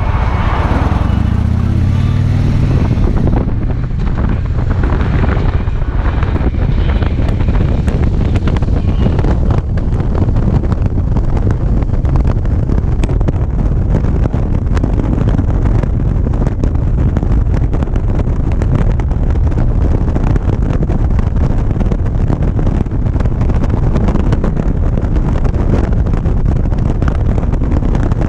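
Motorcycle engine running at road speed, mixed with heavy wind rush on the action-camera microphone. The engine note climbs over the first few seconds as the bike accelerates, then holds steady.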